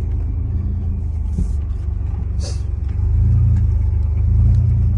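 Chevy 4.3-litre V6 engine of an old truck running with a steady low rumble, getting louder about three seconds in as it is given some gas. A brief hiss sounds about halfway through.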